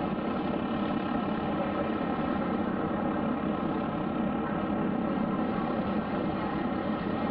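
Aircraft engine running in a steady drone, holding one pitch throughout with no rise or fall.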